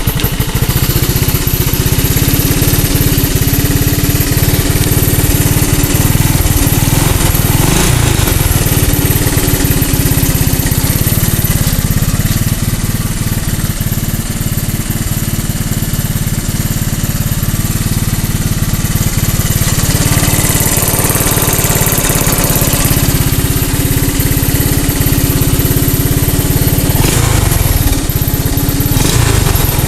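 Three-wheeler's engine running steadily, having just caught on a cold start after sitting unused a long while.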